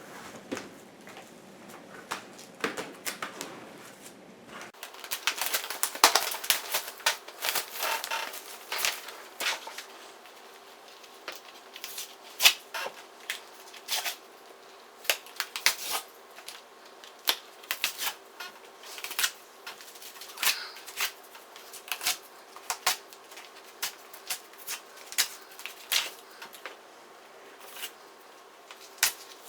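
A pleated furnace filter being taken apart by hand: a run of irregular sharp crackles, snaps and tearing of its cardboard frame and filter material.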